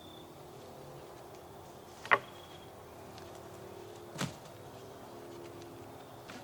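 Two sharp knocks about two seconds apart, the first the louder, over a faint steady background.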